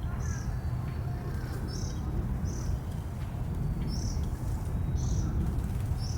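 A bird giving short, high chirps, about one a second, over a steady low rumble.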